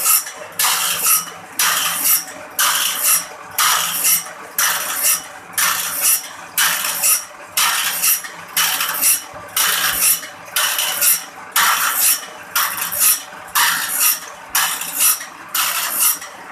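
Homemade motor-driven saw-sharpening machine stroking a file across the teeth of a band-saw blade: a regular metallic rasp a little over once a second, with a faint steady motor hum underneath.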